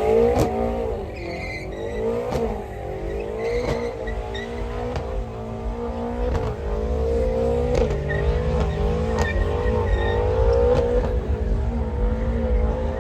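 A car engine being revved: its note swings up and down about once a second at first, then holds steadier with small wavers.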